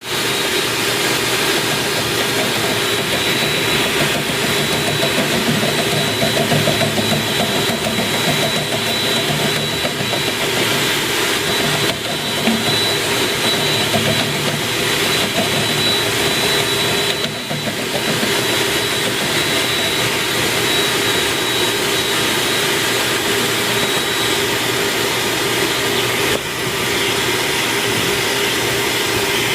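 A machine used for dryer vent cleaning running steadily with a continuous whine, its level dipping briefly a few times.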